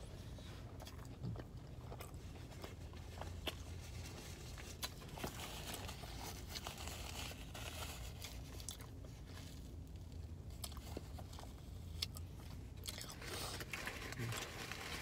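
Close-up chewing of a McDonald's McChicken sandwich: biting and chewing with many small, scattered mouth clicks and smacks.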